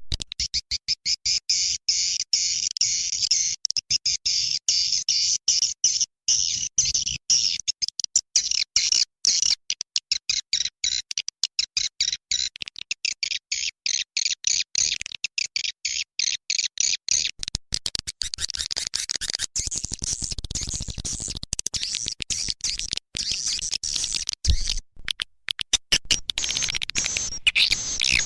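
Swiftlet calls: a dense, rapid, high-pitched chittering from many birds. The sound shifts in texture past the middle, then briefly drops out near the end. This is the kind of recorded swiftlet sound played to lure swiftlets into a nesting house.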